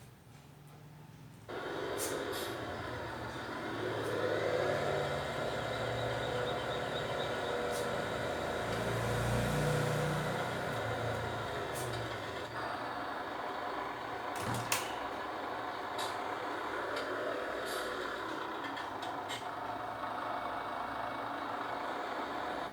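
A heavy vehicle or machine running steadily, with a few sharp clicks. It starts abruptly about a second and a half in and cuts off at the end.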